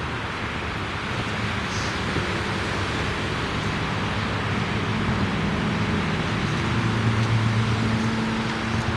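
Steady rushing noise with a low engine hum underneath, like passing road traffic, swelling slightly near the end.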